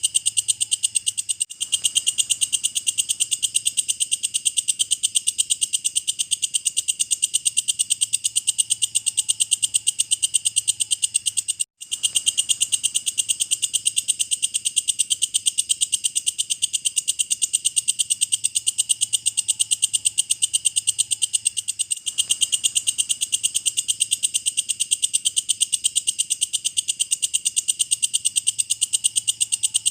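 Walang kecek insect stridulating: a loud, shrill, fast even trill of about ten chirps a second. It breaks off for an instant about twelve seconds in.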